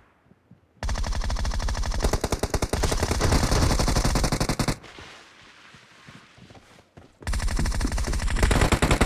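Automatic gunfire from a shooter video game: a long rapid burst of shots about a second in, a few quieter seconds, then another rapid burst near the end.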